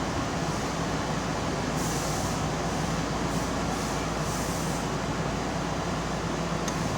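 Keihan electric commuter train running along the line, a steady low rumble heard from inside the front car, with three short hisses of air in the middle.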